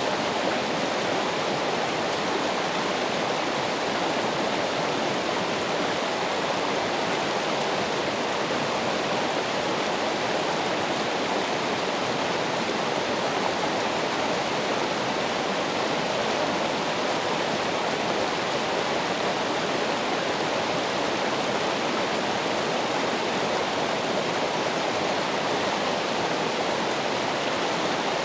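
Running water: a steady, unbroken rush of a stream or small waterfall.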